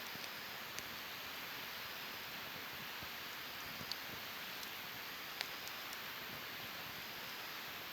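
Wood campfire burning with a steady hiss and a few sharp crackles and pops, the loudest about two-thirds of the way through.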